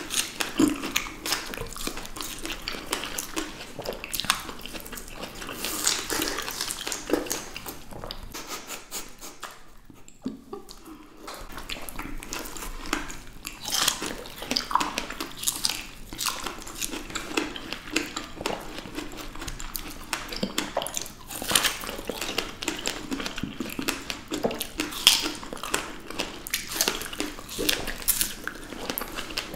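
Close-miked biting and chewing of juicy fresh strawberries: wet, irregular crunches and many small clicks. It goes briefly quieter about ten seconds in.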